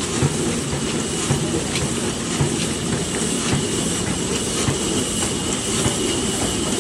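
Large old diesel engine running, a steady dense clatter with repeated knocks and a faint high whine over it.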